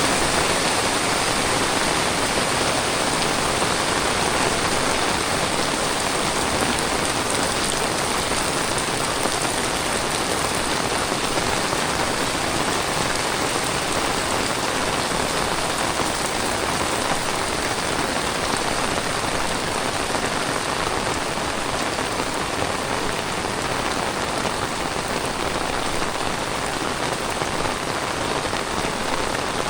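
Heavy tropical rain falling steadily: a dense, even hiss of rain on the ground and surfaces.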